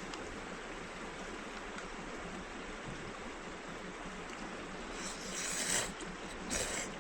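Steady rushing of a flowing river, with two brief louder rustling noises about five seconds in and again near the end.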